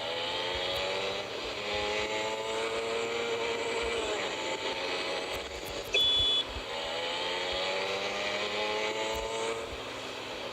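Motorcycle engine running on a ride, its pitch rising and falling over a steady rush of wind and road noise. A short high beep sounds about six seconds in.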